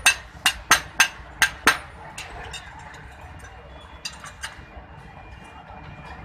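Hand hammer striking metal on an anvil, about six quick ringing blows in the first two seconds, then stopping, with a few lighter taps afterwards.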